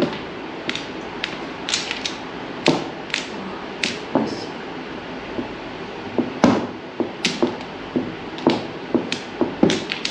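Mahjong tiles clacking against each other and the table as players draw and discard: sharp, irregular clicks, about one or two a second.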